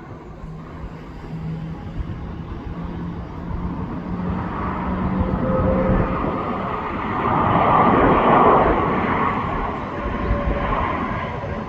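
Jet airliner engines passing by, the noise building to a peak about eight seconds in and then easing off, with a few steady whining tones in it.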